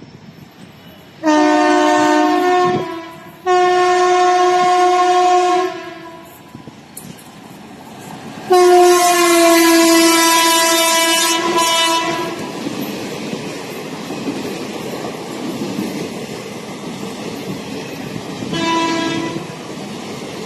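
Indian Railways express train passing a platform. The locomotive's chord horn sounds three long blasts, the third the longest, then a short fourth near the end, over the steady rumble and clickety-clack of the passenger coaches rolling by.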